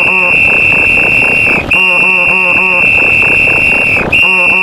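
Referee whistle sounding long, steady, high blasts, one after another with brief breaks between them: one ends about a second and a half in, the next runs until about four seconds in, and another starts just after. Quick repeated lower-pitched sound effects play beneath each blast.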